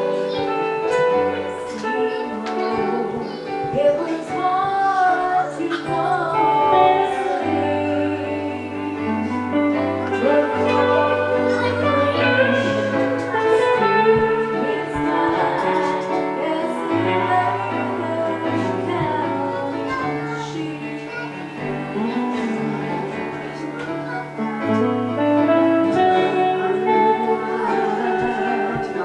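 Live worship music: singing over guitar, with held bass notes that change every few seconds.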